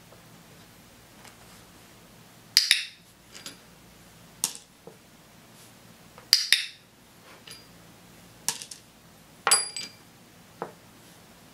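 Small toy figures and glass gem tokens tapping, clattering and clinking on a tabletop, mixed with sharp clicks. About six sharp sounds in all, spread out; the two loudest ring briefly, and one near the end rings with a glassy clink.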